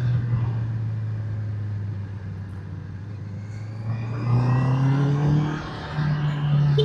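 Motorcycle engine running at a steady pitch, then accelerating about four seconds in with a rising note, a brief dip near six seconds as it changes gear, and a higher steady pitch after.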